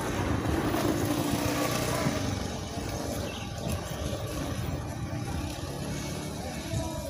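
Electric commuter train running away along the tracks: a steady rumble of wheels on rails, loudest in the first couple of seconds, then easing off.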